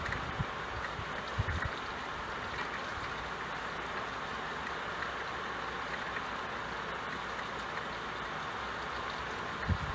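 Steady rain falling, an even hiss, with a few soft low thuds near the start and just before the end.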